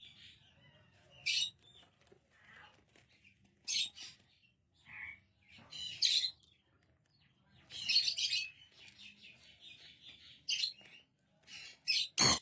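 A pet parrot making short, high chirps and squawks every second or so, with a sharp click near the end.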